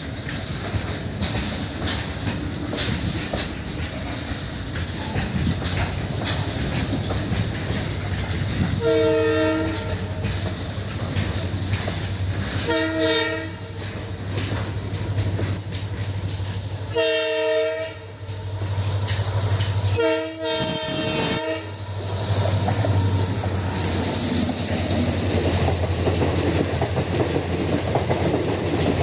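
Twin WDG3A diesel locomotives, ALCo design, running past under power with a steady low engine drone. The horn sounds four times in the middle, each blast about a second long. Then the wheels and coaches rattle and clatter along the track.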